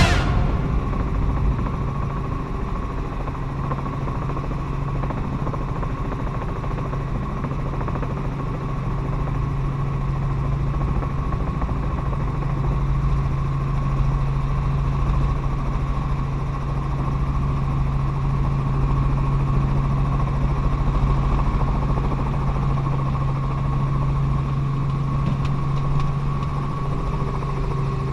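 Helicopter running steadily: a constant engine and rotor drone with a steady low hum and a fainter higher whine.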